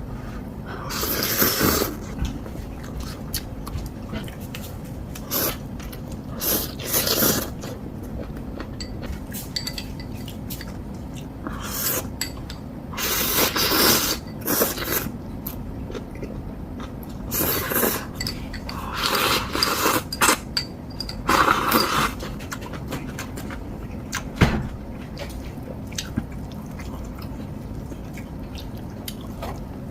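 Ramen being eaten: noodles slurped in repeated bursts a second or two long, with utensils clicking and knocking against the bowls.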